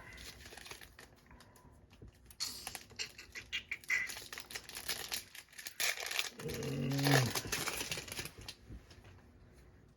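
Trading cards and their foil packaging being handled: quick clicks, flicks and crinkling as cards are slid and flipped. A short low hum from the man is heard about two thirds of the way in.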